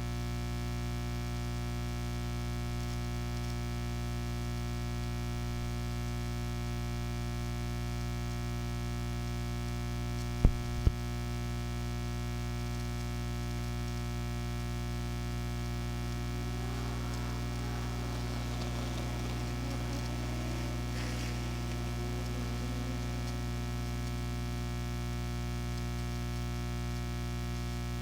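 Steady electrical mains hum from the broadcast audio line, a buzz of many evenly spaced tones that never changes, with two sharp clicks about ten seconds in and faint indistinct sounds partway through.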